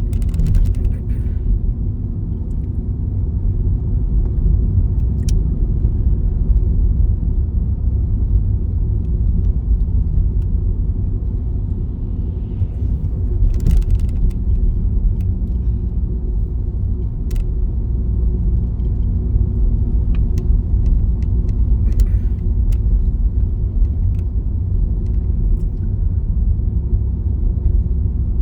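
Steady low rumble of a car driving, heard from inside the cabin, with a few faint clicks scattered through it.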